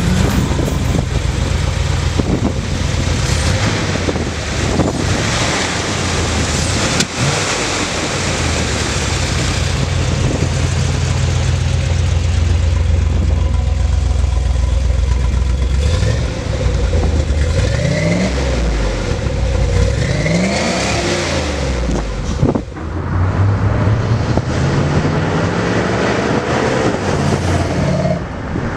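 1982 Chevrolet Corvette's 350 V8 idling steadily, then revved several times about halfway through, the pitch climbing and falling with each blip. Near the end the car pulls away and the engine note climbs as it accelerates.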